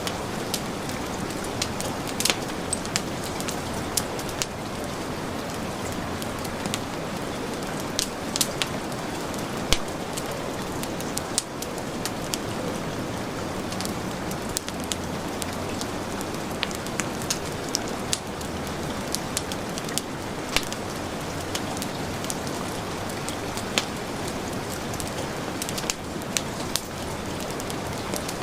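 Steady heavy rain, with scattered sharp crackles and pops from a wood fire every second or two.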